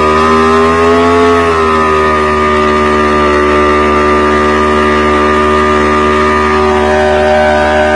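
Motorcycle engine held at high revs during a burnout. The pitch rises slightly, dips about a second and a half in, then holds steady.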